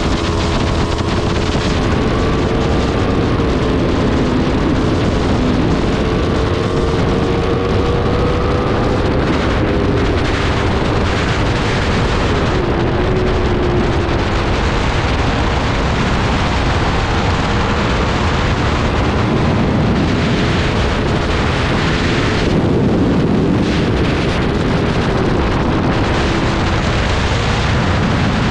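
Aprilia RSV4's V4 engine running hard, its pitch rising and falling with the throttle, under heavy wind noise on the microphone.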